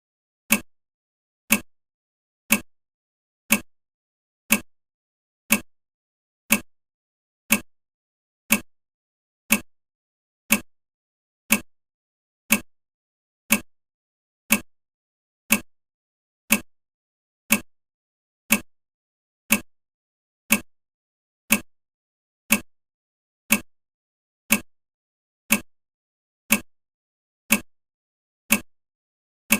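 Countdown timer ticking steadily, one short sharp tick every second, counting off the seconds.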